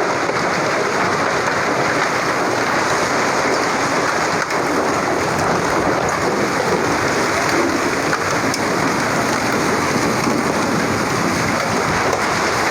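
Heavy rain with hail falling steadily in a dense, even hiss, with a few faint ticks.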